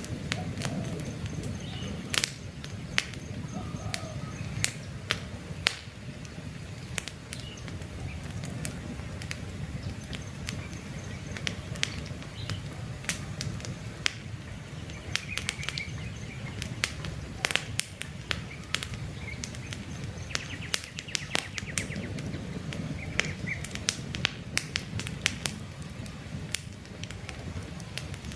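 Wood campfire crackling, with frequent sharp pops and snaps over a low steady rush of flame. Faint birds chirp now and then in the background.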